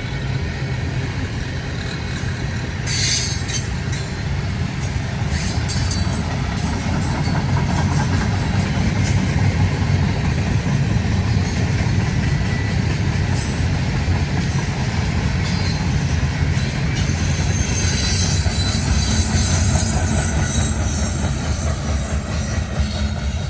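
Freight train's cars rolling past with a steady rumble, and flashes of high wheel squeal about three seconds in and again near the end.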